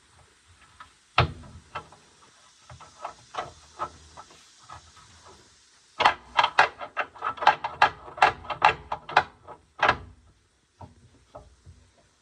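Irregular knocks and clacks from work on the machine, turning about halfway through into a quick run of sharp clacks at about four or five a second that stops after a few seconds, followed by a few faint knocks.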